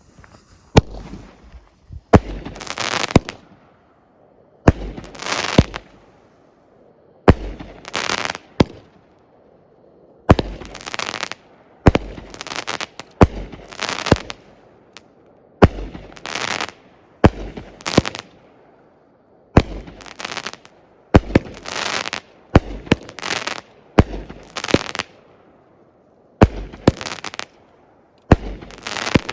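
A 16-shot consumer fireworks cake ('Marines') firing shot after shot, one to two seconds apart, each a sharp bang trailing into about a second of noise.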